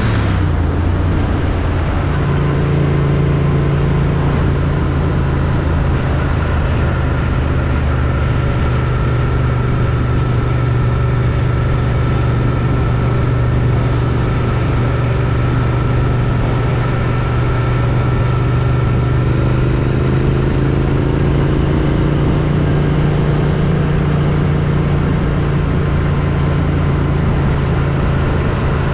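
Triumph Street Twin's 900 cc parallel-twin engine on its stock exhaust, pulling up through a gear change right at the start, then cruising at a steady speed. Wind rushes over the chin-mounted helmet camera.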